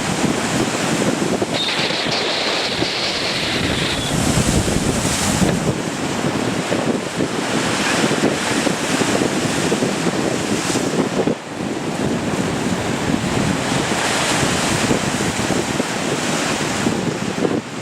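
High waves breaking and splashing, with strong gusty wind buffeting the microphone. A brief high steady tone sounds for a couple of seconds near the start.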